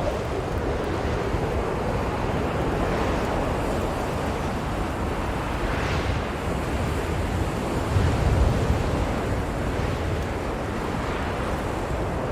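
Blizzard wind blowing steadily with a deep rumble, swelling in gusts, with a stronger gust about eight seconds in.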